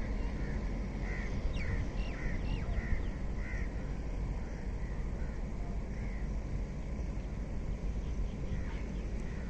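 Birds calling: a quick run of short, harsh, caw-like calls in the first few seconds, then a few more scattered calls later, over a steady low rumble.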